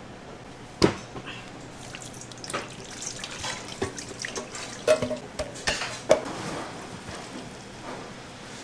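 Kitchen work at a sink: water running, with scattered sharp knocks and clinks of dishes and utensils, the loudest about a second in and twice more around five and six seconds in.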